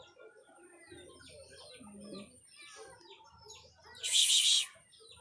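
Faint calls of birds and poultry scattered throughout, with a thin steady high tone. About four seconds in comes a short, loud burst of noise lasting about half a second.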